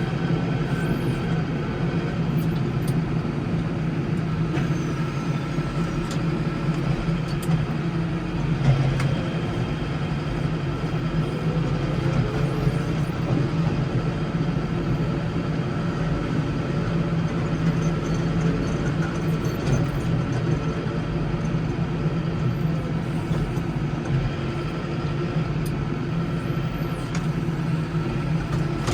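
Case 115U tractor's diesel engine running steadily under load while plowing snow, with a few light knocks and clicks.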